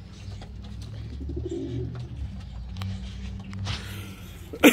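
Domestic pigeons cooing in a loft aviary, with a sharp knock near the end.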